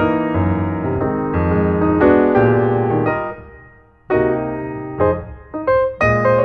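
Background piano music. It fades away a little past halfway and comes back a moment later with crisp, separate notes.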